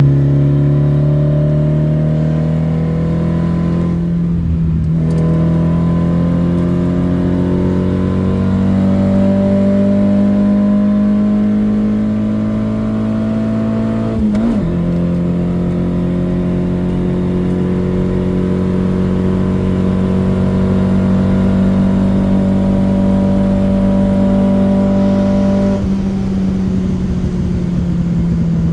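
Škoda 130L's 1.3-litre four-cylinder engine, breathing through motorcycle carburettors, pulling hard under full throttle. The engine note climbs slowly through each gear and dips briefly at gear changes, about four seconds in, about fourteen seconds in, and again near the end.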